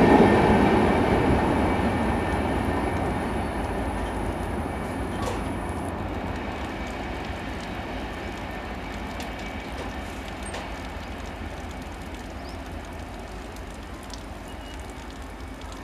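A passing train's rumble and wheel noise on the rails, loudest at first and fading steadily as the train draws away.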